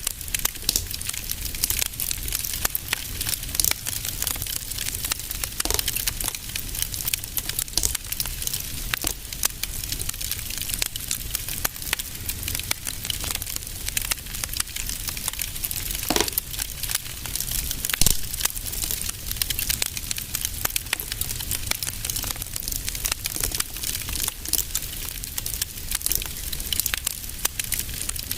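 Fire crackling in a fireplace: a dense run of small snaps and pops over a low rumble, with a few louder pops, the loudest about 18 seconds in.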